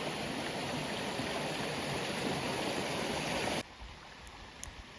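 Stream water rushing in a steady, even wash. It cuts off abruptly about three and a half seconds in, leaving quiet background with a few faint clicks.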